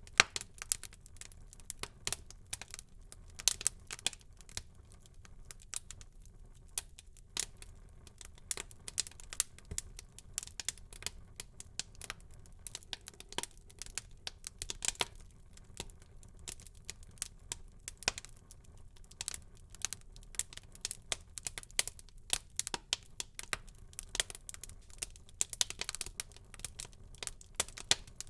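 Wood fire crackling in a fireplace: irregular sharp pops and snaps, some close together in quick runs, over a low steady rumble of flame.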